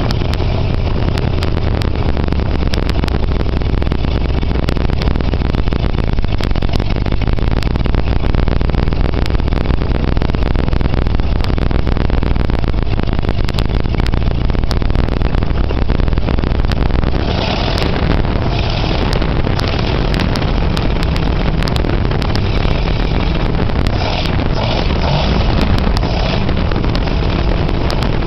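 1937 flathead engine running steadily, heard up close over the cylinder head, with a deep, even hum. About seventeen seconds in, the deepest part of the hum drops away and a brighter clatter comes through.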